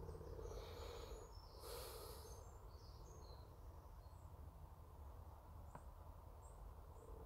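Near silence outdoors: faint, short bird chirps now and then over a low steady hum, with a brief rustle about two seconds in.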